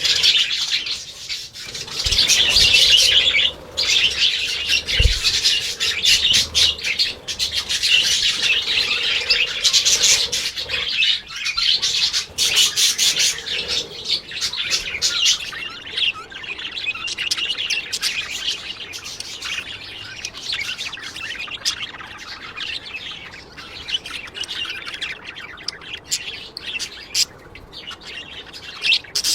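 Many small birds chirping and chattering together without pause, a dense mass of high calls with short sharp notes.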